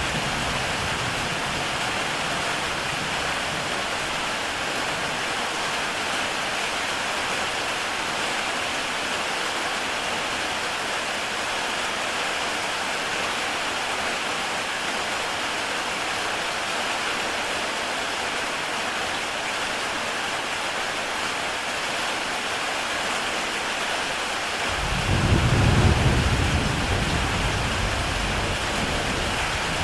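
Heavy rain falling steadily on a tile roof, an even hiss. About 25 seconds in, a low roll of thunder swells and fades over a few seconds.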